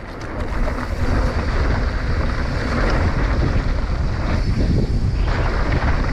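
Wind rushing loudly over an action camera's microphone during a fast mountain-bike run down a jump line, a steady low buffeting roar.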